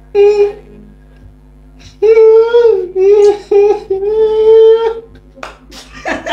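A voice making a high, drawn-out wailing noise, held on one pitch in a few long stretches with short breaks, starting about two seconds in after a brief cry at the start.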